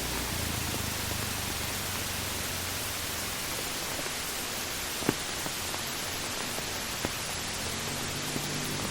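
Steady hiss of heavy rain, with two sharp drop taps in the middle. A vehicle engine starts to come up near the end.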